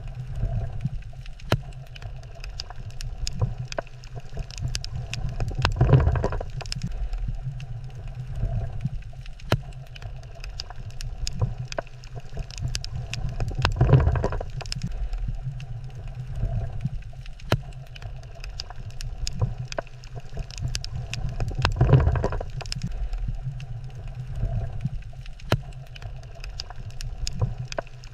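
Underwater coral-reef ambience: a steady low rumble of water that swells about every eight seconds, with many scattered sharp clicks.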